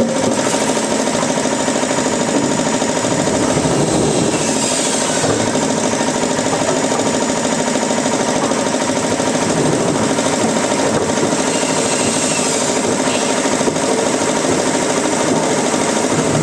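Woodworking machinery running steadily, a loud, even mechanical noise with a fast, continuous rattle.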